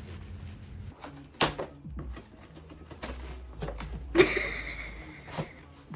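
A few light knocks and taps, irregular, with sharper ones about a second and a half in and about four seconds in.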